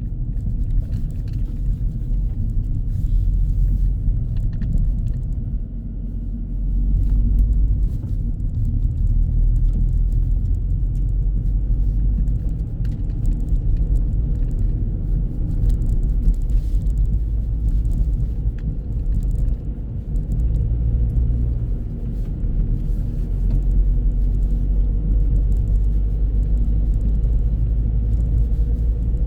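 Car driving along, heard from inside the cabin: a steady low rumble of road and engine noise that swells a little now and then.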